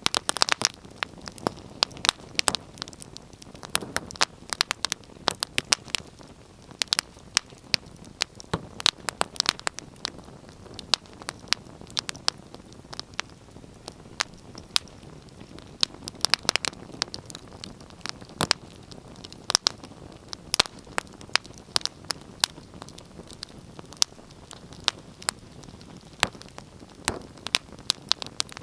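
Wood fire crackling: frequent irregular sharp pops and snaps over a soft steady hiss of burning.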